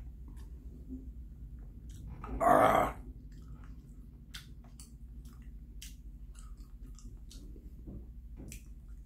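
A person chewing a mouthful of bread with soft, wet mouth clicks. A brief, loud, breathy noise comes about two and a half seconds in.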